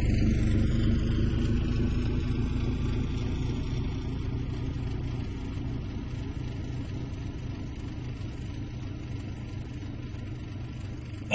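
Flying car's engine sound effect: a steady low rumble with a thin high whine over it, slowly fading away.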